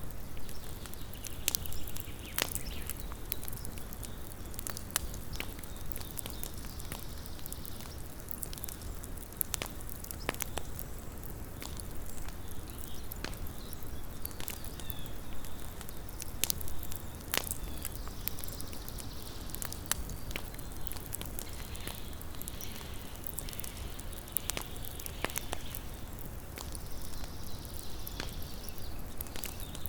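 Small wood campfire burning: irregular sharp crackles and pops over a steady low hiss of the flames.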